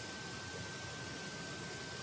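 Orico QSL-6U USB charging station giving off a steady high-pitched whine over a constant hiss while it powers a small light load. The whine is one of the defects the owner is showing in the unit.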